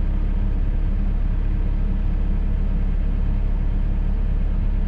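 Cat 313 excavator's diesel engine running steadily, with no digging impacts.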